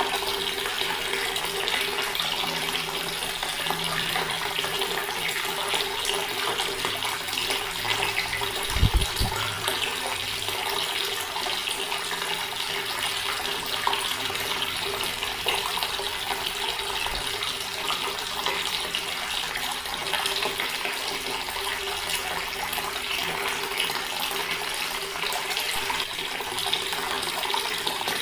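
Water running steadily from a tap and splashing, with a faint steady hum under it. A brief low thump about nine seconds in.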